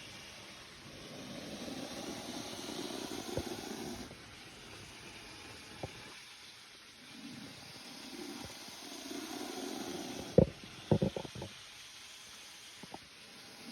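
Spectacled cobra hissing: two long, breathy hisses, the first starting about a second in and the second about seven seconds in. About ten seconds in comes a cluster of sharp knocks, the loudest sounds.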